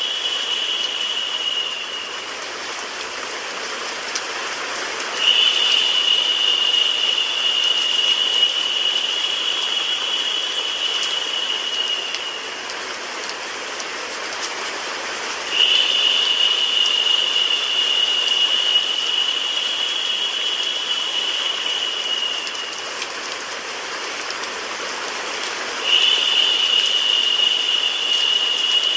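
White noise mixed with a rain sound effect: a steady hiss. A brighter, higher hiss sets in suddenly and fades out again in a repeating cycle, about every ten seconds, three times here.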